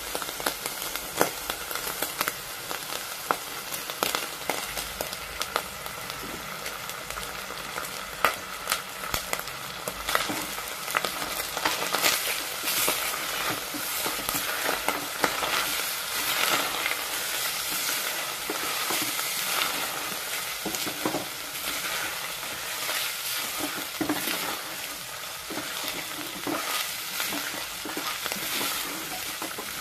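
Cubed food sizzling as it sautés in a stainless steel pot, stirred with a wooden spoon that knocks and scrapes against the pot in many short clicks.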